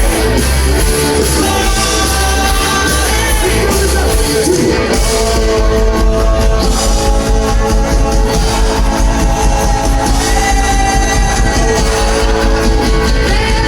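Live rock band playing loud rock music.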